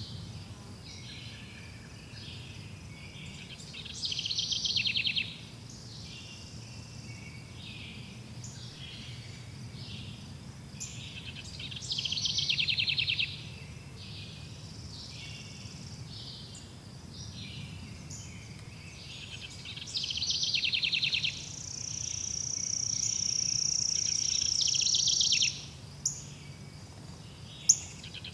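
Forest ambience: birds chirping continuously, with a louder, rapid trilled song coming back about every eight seconds. Near the end a high, steady note holds for a few seconds, followed by two sharp clicks.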